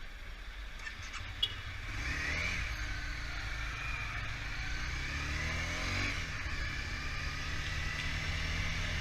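Motorcycle engine running while riding, its note rising and falling, over a steady low rumble. A short sharp click comes about a second and a half in.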